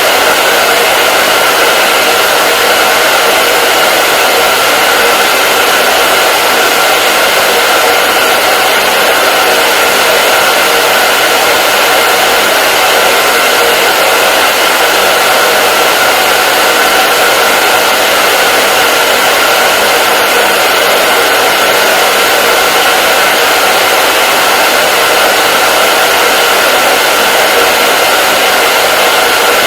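Handheld hair dryer running steadily: an even, loud rushing of fan air with a faint steady whine from its motor.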